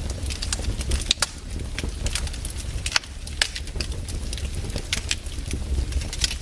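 Campfire crackling: burning wood gives off irregular sharp pops over a steady low rumble.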